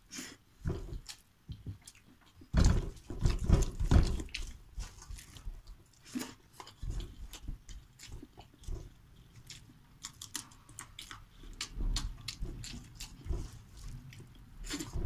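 Close-up chewing of canned sardines in tomato sauce eaten by hand: irregular wet smacking and clicking mouth sounds, loudest a few seconds in.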